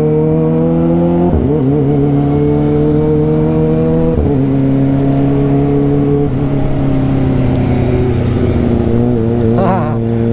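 Kawasaki ZX25R's 250 cc inline-four engine accelerating through the gears. Its pitch climbs slowly, then drops sharply twice, about a second and a half in and again about four seconds in, as it upshifts with the quickshifter. After that it holds steady and eases down.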